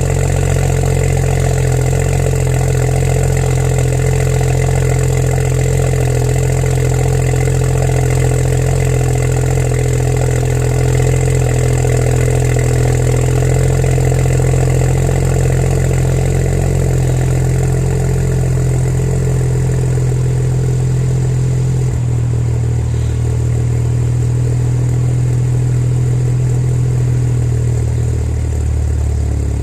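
BMW 335i's twin-turbo straight-six idling on a cold start, heard through a VRSF turboback exhaust, with a steady drone. About two-thirds of the way through, the idle note shifts lower as the raised cold-start idle comes down.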